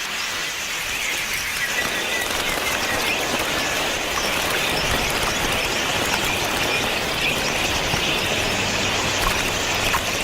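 A huge flock of wild budgerigars, thousands of birds chattering at once in a dense, steady chirping. A rushing sound fills in underneath about two seconds in.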